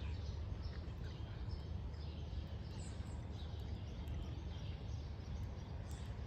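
Small birds chirping over and over, many short high chirps, above a steady low rumble of outdoor noise.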